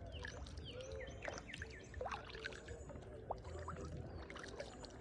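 Kayak paddle dipping into and lifting out of river water, with drips and small splashes making many short plinking chirps, over a low steady rumble.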